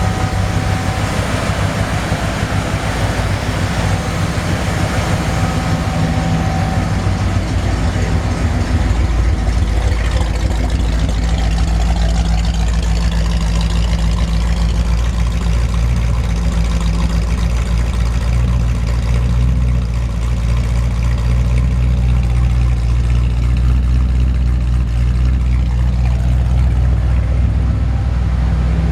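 1955 Willys station wagon engine idling steadily just after a cold start. Its low note grows stronger and a little louder from about eight seconds in.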